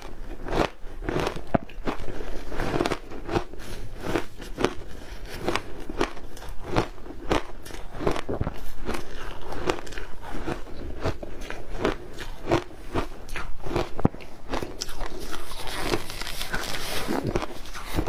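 Close-up crunching of ice with matcha green tea powder being bitten and chewed: sharp, irregular crunches about two or three a second, turning into denser crackling near the end.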